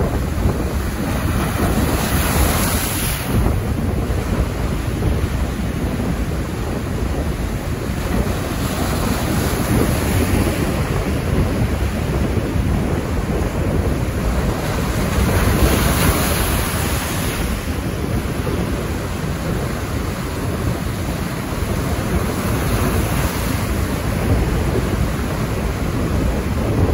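Wind and rain in a storm, with heavy wind rumble on the microphone. The noise swells in two stronger gusts, a couple of seconds in and again about halfway through.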